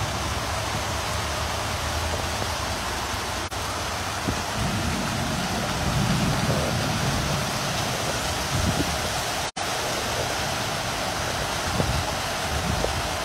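Heavy rain pouring in a steady hiss, with gusts of wind swelling now and then.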